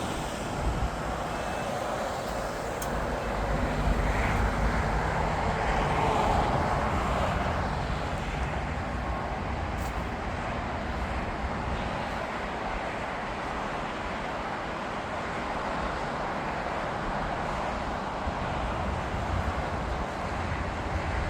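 Jet aircraft engine noise mixed with a steady traffic rumble, swelling louder for a few seconds about four seconds in, then settling back.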